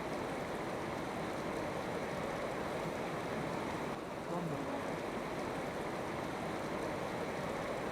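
Artificial rain from a rain-room installation falling steadily, a continuous hiss of water with faint voices underneath.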